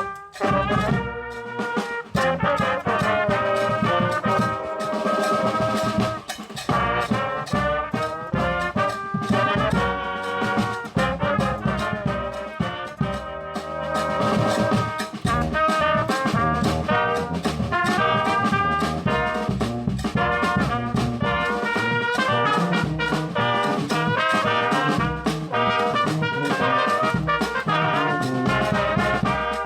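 A band playing music, brass horns carrying held, pitched notes over a running beat.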